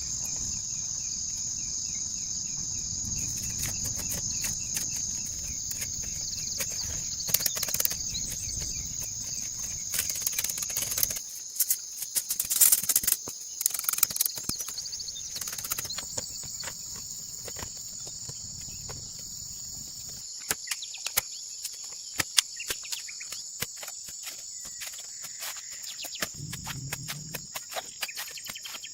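Steady high-pitched insect chorus, crickets or similar, with scattered sharp clicks and knocks. A low rumble underneath stops about eleven seconds in.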